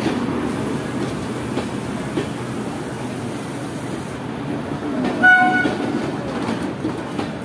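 Indian Railways passenger train rolling along a platform, its coaches rumbling with wheels clicking over the rail joints. A short horn toot sounds about five seconds in.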